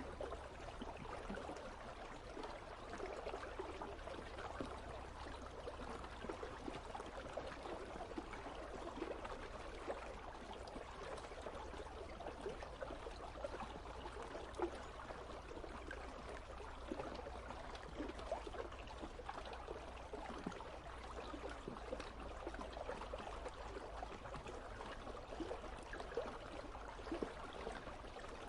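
Icy river flowing steadily, water babbling and trickling with many small splashes, over a steady low rumble.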